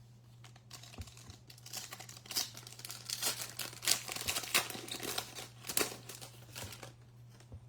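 Foil trading-card pack wrapper being torn open and crinkled by hand: a run of irregular crackles and snaps that stops shortly before the end.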